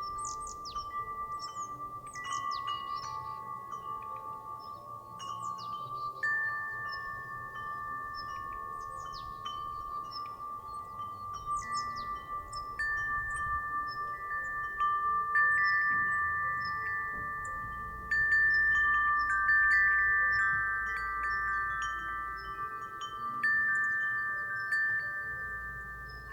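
Wind chime swinging in the breeze, its clear tones ringing on and overlapping. The strikes come more often and louder in the second half.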